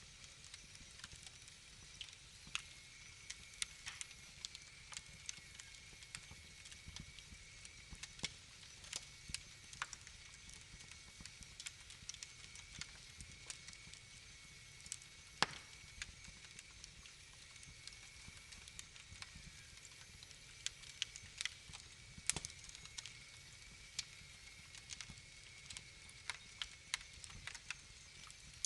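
Wood fire crackling: irregular sharp snaps and pops over a low, steady rumble, with two louder pops, one just past the middle and one about three-quarters through.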